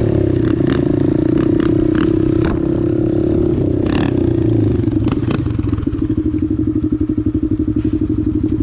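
Dirt bike engine running, held steady at first, then dropping to a low, pulsing chug after about five seconds, with scattered clattering knocks as the bike rides over rocks.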